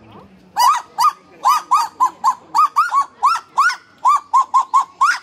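Kagu calling: a rapid run of short, arched calls, about three or four a second, starting about half a second in.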